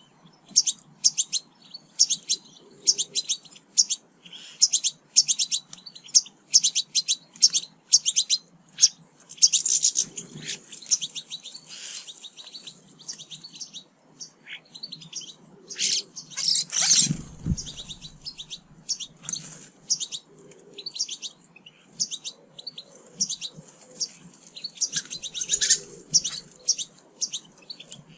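Small garden songbirds at feeders chirping and twittering in quick, busy runs of short high calls. About two-thirds of the way through there is a louder rushing burst with a low thud, like a flutter of wings.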